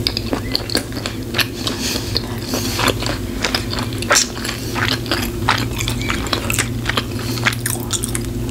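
Close-miked chewing of a mouthful of hot dog and soft bun: irregular wet mouth clicks and smacks, several a second, with one louder smack about four seconds in.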